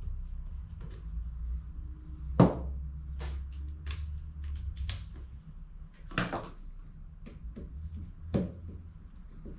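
Clicks and knocks of plastic HP CE285A toner cartridge parts and tools being handled on a workbench, the sharpest knock about two and a half seconds in, over a steady low hum.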